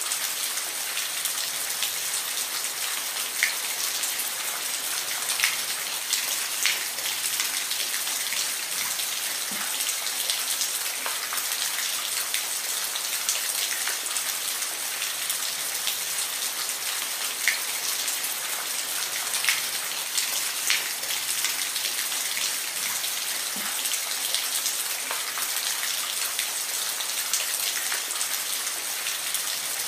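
Steady rain falling, a constant hiss with individual drops pattering and clicking now and then.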